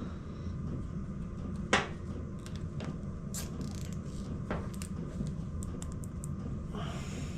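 Light clicks and taps from small engine parts being handled, with a short rasp near the end, over a steady low hum.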